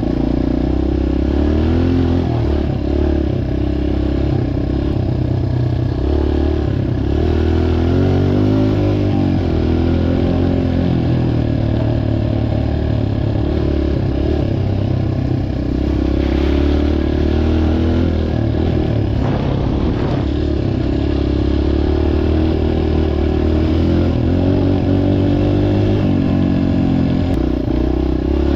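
Dirt bike engine running continuously, its revs rising and falling over and over as it is ridden.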